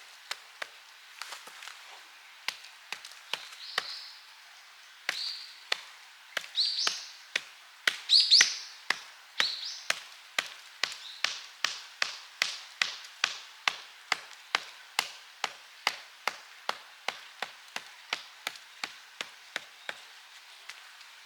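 A tool striking wood again and again: sharp knocks, scattered at first with a few short scraping sounds between them, then a steady run of about two to three strikes a second that gradually gets quieter.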